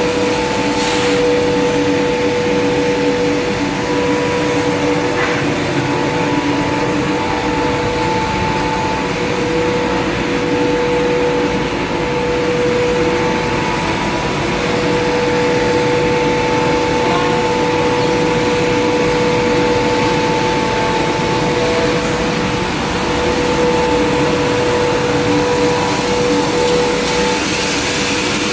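Steady running of industrial machinery, a loud even rush with a steady two-tone motor whine.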